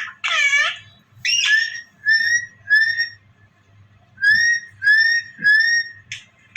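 Pet green parrot calling and whistling: a wavering call, then a string of short upward-slurred whistles, two and then three more.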